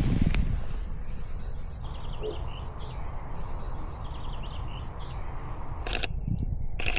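Small songbirds chirping with quick, high notes, over a low rumble of wind or handling noise. Near the end, two sharp camera shutter clicks.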